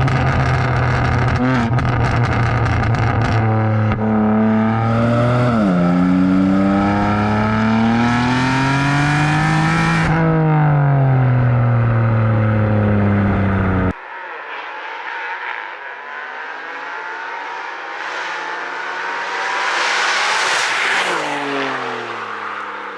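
BMW M4 G82's S58 twin-turbo inline-six through a catless full FI exhaust with a valved catback, running loud, held at a steady pitch and then revving up and dropping back under acceleration. About 14 s in, the sound cuts to a quieter shot where the car's exhaust note builds, rises and falls as it passes.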